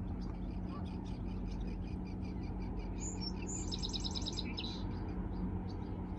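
Songbirds chirping, with a quick trill of about eight rapid notes around the middle, over a steady low rumble.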